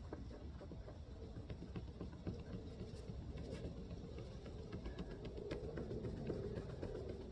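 A folded cleaning wipe rubbed back and forth over a plastic headlight lens by a gloved hand: irregular scratchy, scuffing strokes, growing a little fuller in the second half, as the oxidised yellow film wipes off.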